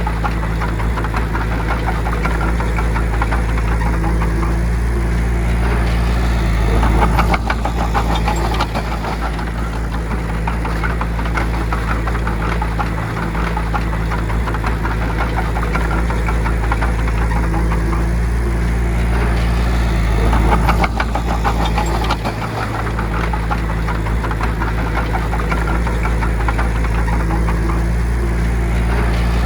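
Bulldozer's diesel engine running steadily with a rapid clatter, swelling louder three times, about every thirteen seconds, while it pushes soil.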